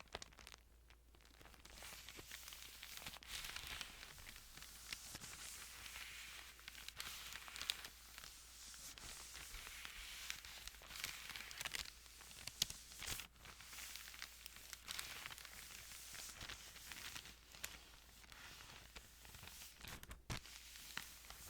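Close-miked Bible pages rustling and crinkling under the hands, a continuous soft papery hiss with scattered small clicks.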